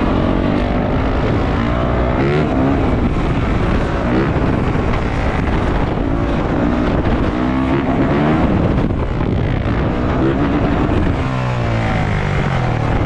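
450cc four-stroke dirt bike engine revving hard, its pitch climbing and dropping several times as the rider works the throttle and gears, with wind buffeting the microphone.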